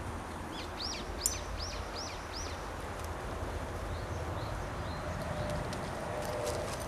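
A small bird sings a quick run of about six high chirps, each rising then falling, in the first few seconds, over steady outdoor background noise.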